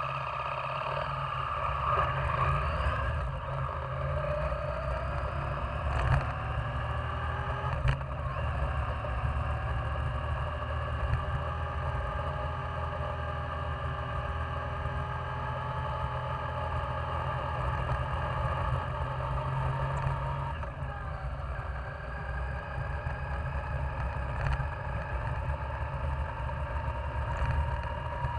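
Yamaha Virago 535's V-twin engine running steadily under way, its note slowly rising and falling with road speed and dipping briefly about twenty seconds in. Two sharp knocks come about six and eight seconds in.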